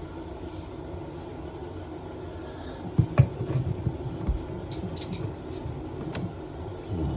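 Metal hand tools clinking and knocking while a wrench is fitted to a toilet supply valve's compression nut: two sharp knocks about three seconds in, then a few lighter clicks, over a steady low hum.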